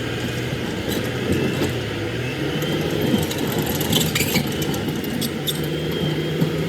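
Excavator's diesel engine running steadily, with scattered light clicks and knocks on top.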